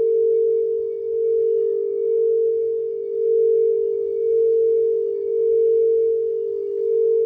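Crystal singing bowl sounding one sustained, steady tone, its loudness swelling and fading about once a second, with faint higher overtones.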